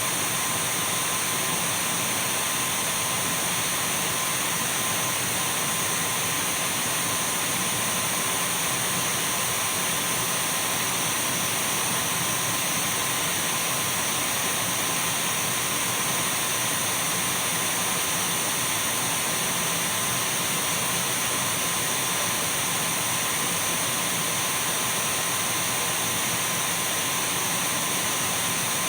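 Dyson V12 cordless stick vacuum cleaner running steadily: an even rush of air with a thin, constant whine.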